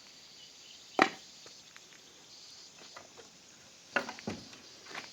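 A single sharp knock about a second in, then a quick run of smaller knocks and clatters near the end.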